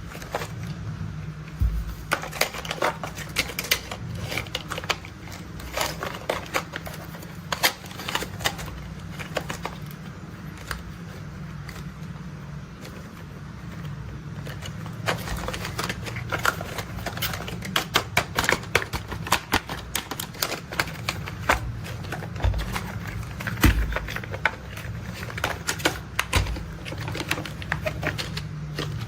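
Toy construction vehicles being handled, tapped and rolled: rapid, irregular clicks and taps throughout, over a steady low hum.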